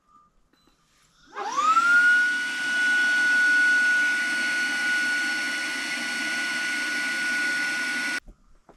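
Electric air pump starting up with a quickly rising whine that settles into a steady high pitch. It runs for about seven seconds, then cuts off suddenly.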